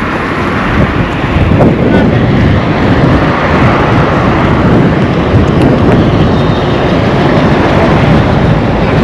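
Loud, steady rumble of road traffic, mixed with wind buffeting the microphone.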